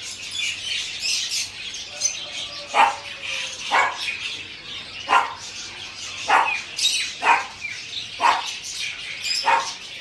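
Many caged birds chirping, with a dog barking sharply about once a second through the second half.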